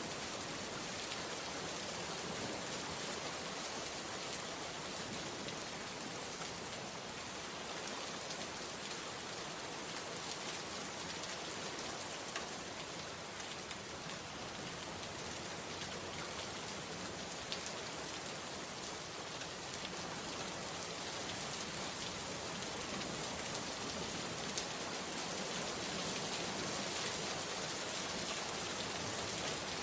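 Steady rain falling, with a few sharper single drops ticking out of it now and then.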